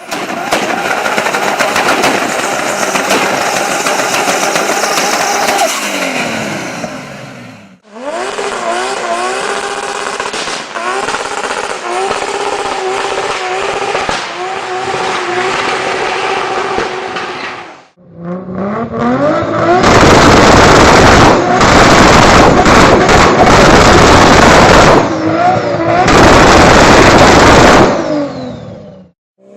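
A turbocharged Toyota Supra's engine in three separate recordings cut together. First it runs steadily and then drops in revs. Next it is blipped up in short repeated revs. Last, the revs climb into a very loud, distorted full-throttle run.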